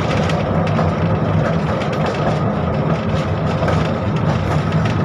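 71-605 (KTM-5M3) tram running: a steady low rumble with a hum and scattered light clicks and knocks.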